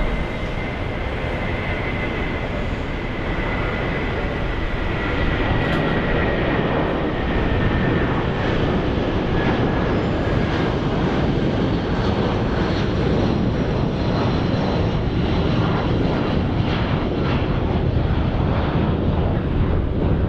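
Jet airliner's engines passing close, a loud steady roar with a high whine that slowly falls in pitch over the first several seconds. The roar grows louder about five seconds in and holds.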